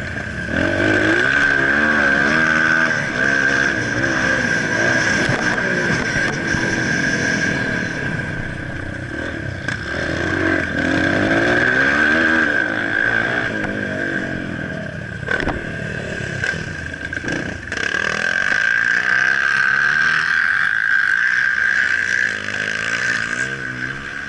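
Motocross bike engines revving up and down again and again as the bikes ride the track, with a steady high-pitched whine running underneath.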